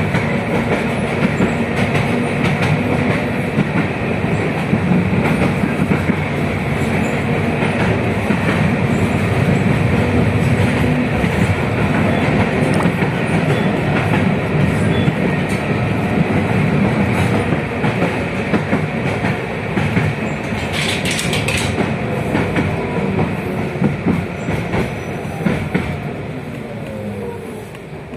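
Running noise of a 71-619KT tram heard from inside the car: a steady rumble of wheels on the rails with clattering over rail joints. A brief hiss comes about three quarters of the way through. Near the end the noise fades and a whine falls in pitch as the tram slows.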